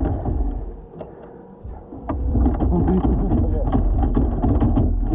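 Wind rumbling on the microphone, easing briefly about a second in, with muffled, indistinct voices in the second half.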